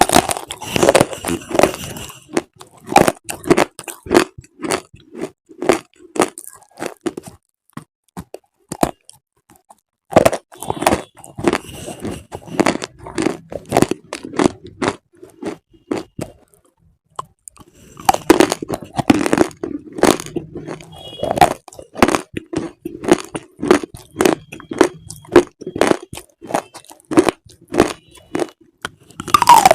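Close-miked chewing of crunchy food: a run of sharp, crisp crunches about two a second, stopping for a couple of seconds a little past the middle before resuming.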